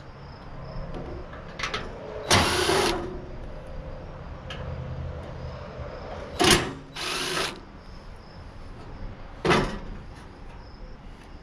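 A power drill or driver running in four short bursts of about half a second or less, with handling noise between them.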